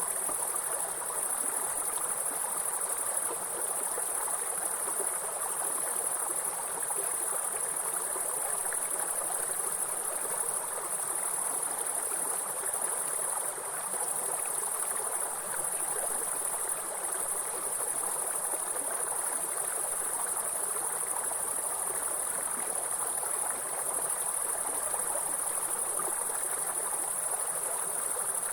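Steady, high-pitched insect chirring over the continuous rush of flowing water from a stream or small waterfall.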